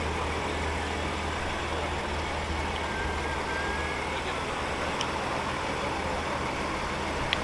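Car engines idling, a steady low hum with faint background noise and a small click near the end.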